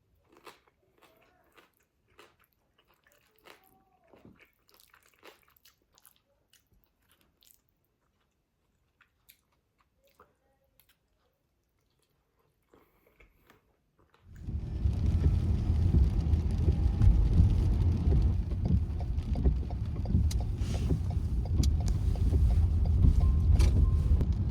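Faint biting and chewing sounds of someone eating, with small scattered crunches. About two-thirds of the way through, a loud, steady low rumble starts suddenly and drowns them out.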